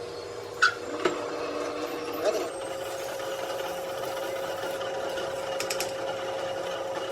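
A workshop machine's motor runs with a steady hum that steps up slightly in pitch a little over two seconds in. Three sharp knocks come in the first few seconds, the first the loudest.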